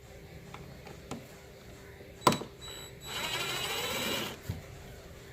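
A power screwdriver or cordless drill runs for about a second, backing out one of the four screws that hold the stock pump shoe, after a sharp click.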